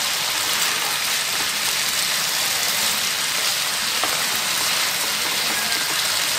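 Tandoori chicken pieces frying hard in a pan over a high flame: a steady sizzling hiss as the last water in the gravy boils off. A single light click comes about four seconds in.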